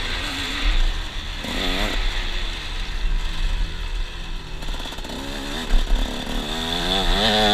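KTM 125 SX single-cylinder two-stroke engine revving up and down under throttle. It drops to lower revs through the middle, with a couple of sharp knocks about two-thirds of the way through, then climbs again near the end.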